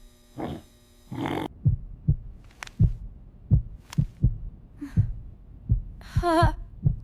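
A steady electrical hum cuts off about a second and a half in. Low, dull thuds follow in an uneven pulsing rhythm, about two a second and often in close pairs.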